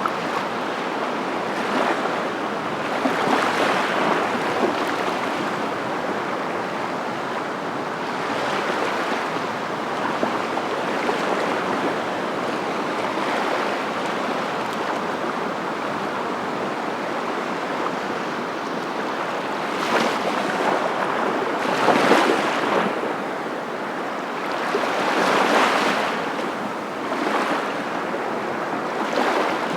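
Steady rushing noise of surf, swelling and easing every few seconds as waves wash in.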